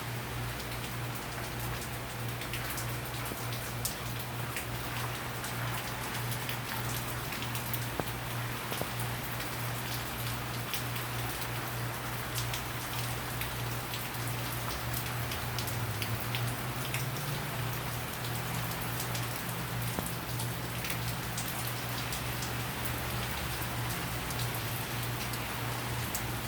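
Heavy hurricane rain falling and spattering on surfaces in a dense patter of drops, with a steady low hum underneath.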